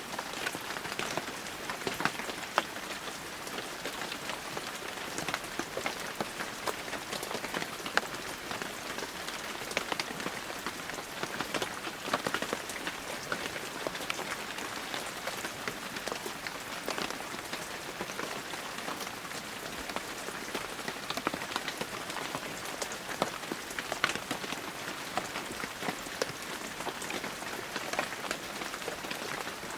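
Heavy rain falling steadily, a dense hiss of rainfall with many sharp individual drop impacts scattered through it.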